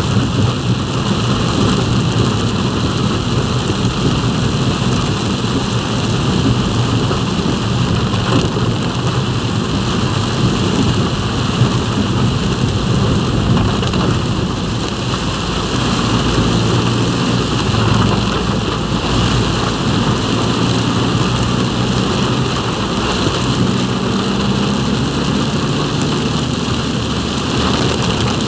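Heavy rain on a moving vehicle, with a steady low rumble of engine and wet-road noise underneath.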